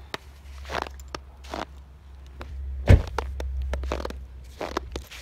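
Footsteps in snow, about one step a second, with one sharper, louder thump about three seconds in, over a low steady rumble.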